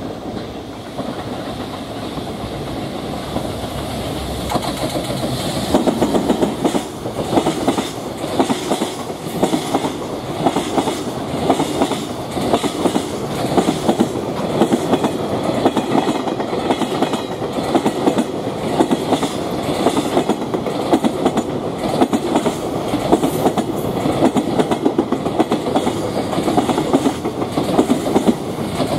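JR Freight EF210 electric locomotive approaching and passing, louder over the first few seconds. A long string of container wagons follows, rolling by with a steady clickety-clack of wheels over the rail joints.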